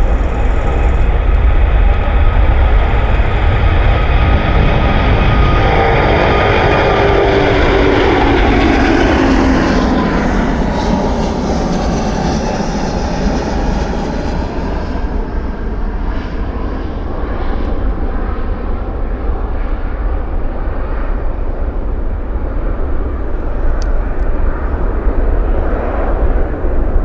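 Jet airliner passing close by: loud engine noise whose tones fall steadily in pitch as it goes past, then a lower rumble that carries on.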